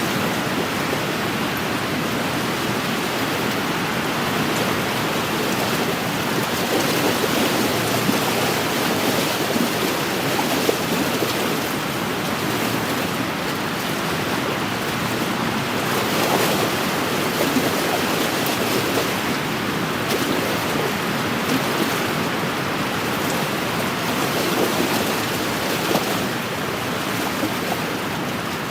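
Wind-driven waves washing and lapping against a lakeshore in a steady wash, with a few slightly louder laps.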